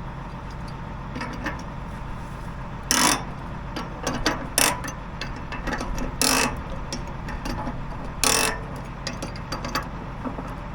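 Ratchet and socket working on a big bolt: scattered metal clicks and clanks, with three louder rasping strokes, over the steady hum of an idling engine.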